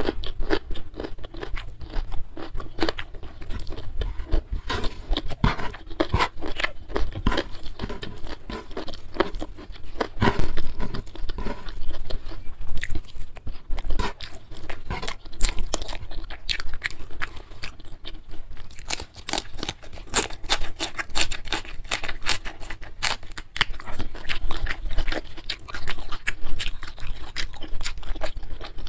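Close-miked chewing of mouthfuls of rice and spicy side dishes, a dense, continuous run of crisp crunches and wet mouth clicks.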